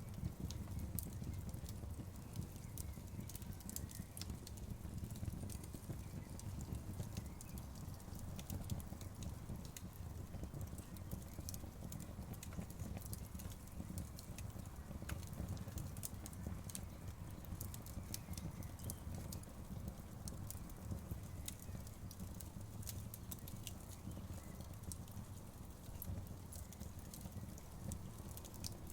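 Wood fire burning: a steady low rumble of flames with frequent, irregular sharp crackles and pops.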